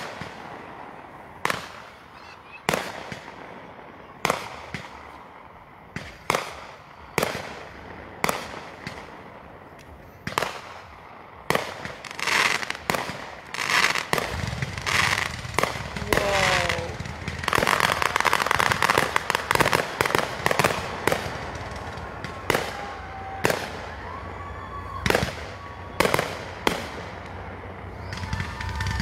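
Aerial fireworks shells bursting in a series of sharp booms about a second apart. Through the middle they come thick and overlapping, with a crackling haze between them.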